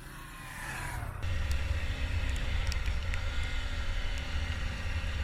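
A motorcycle being ridden, its engine running steadily under a heavy low rumble of wind on the microphone, which gets louder about a second in.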